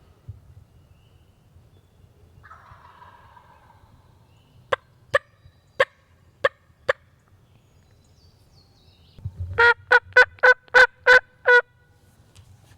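Turkey yelping: five short, sharp yelps, then after a pause a louder run of about eight yelps at roughly four a second.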